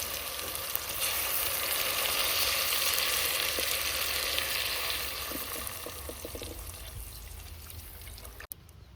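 Food sizzling in hot oil in a pan, at its loudest for a few seconds, then dying down and cutting off abruptly near the end.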